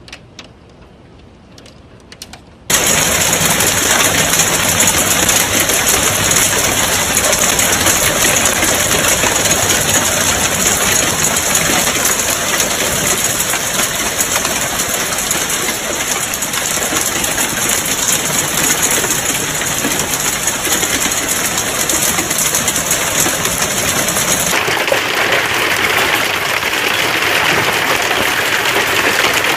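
Hail pelting down, a loud dense clatter that starts abruptly a few seconds in and keeps up steadily. Near the end it cuts to another hail recording with a duller sound.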